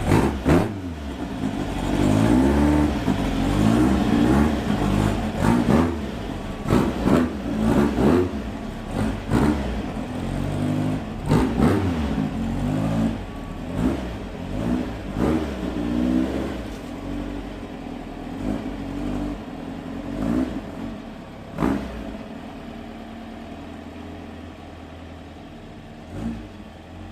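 Car engine being revved over and over, its pitch rising and falling about once a second, then settling and fading gradually toward the end.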